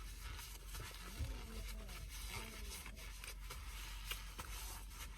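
Faint distant voices over a low steady hum, with a few light ticks; nothing close or loud.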